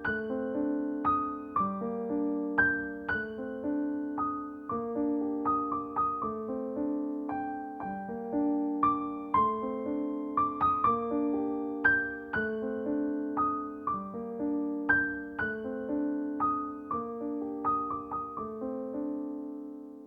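Background piano music: a gentle, repeating figure of struck notes over sustained chords.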